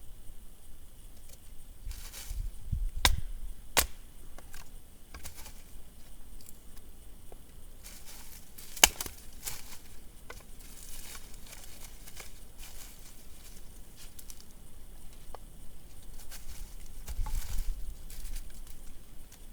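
Dense hardwood firewood being split: several sharp chopping strikes, the loudest about nine seconds in, with low knocks from the wood being handled between them.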